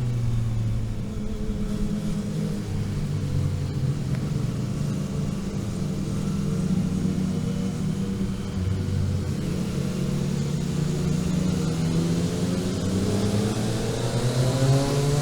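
Onboard sound of a vehicle engine driving a mountain road, its pitch shifting with throttle and gears: it drops about two-thirds of the way through, then rises as it accelerates near the end.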